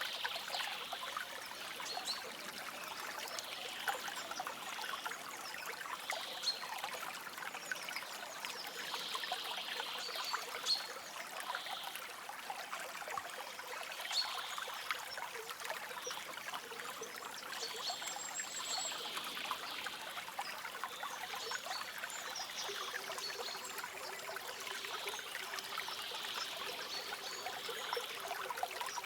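Shallow stream trickling and splashing steadily, with faint short high chirps every few seconds, one thin high call about eighteen seconds in.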